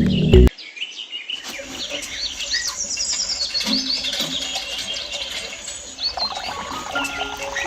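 A dense chorus of many small birds chirping and twittering, short rising and falling calls overlapping one another. Electronic music cuts off about half a second in, before the birdsong takes over.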